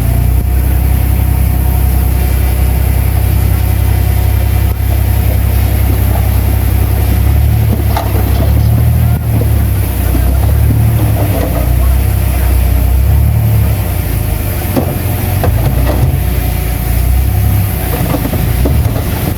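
Bulldozer's heavy diesel engine running steadily, a loud deep rumble, with a few short knocks partway through.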